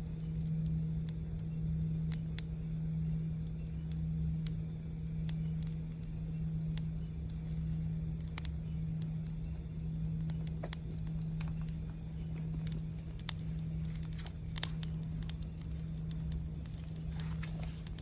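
A singing bowl ringing with a low, sustained tone that slowly swells and fades, over the scattered crackles and pops of a campfire, with one sharper pop late on.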